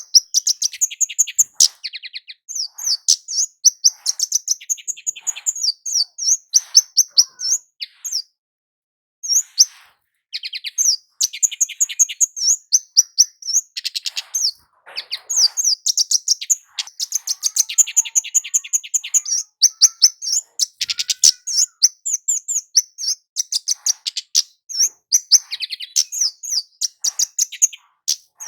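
Flowerpecker (kemade jawa) singing a long, fast run of high, thin chirps, breaking off for about a second some eight seconds in before starting again.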